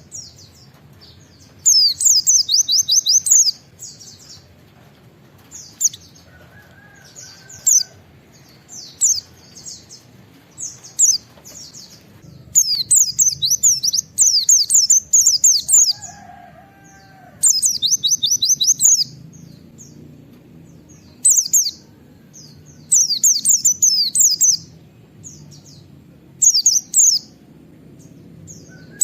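White-eye (pleci) singing in short bursts of rapid, high-pitched 'wit-wit' notes, a dozen or so bursts with short pauses between them. This is the 'nembak' song that pleci keepers play to set other white-eyes singing.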